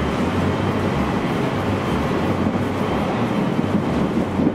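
Nishitetsu limited express electric train running at speed, heard from inside the carriage: a steady rumble of wheels on rail with a low, pulsing hum underneath.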